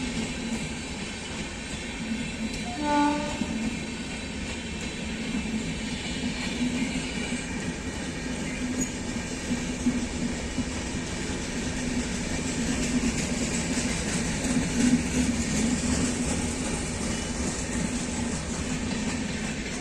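A train running with a steady rumble, and one short horn blast about three seconds in.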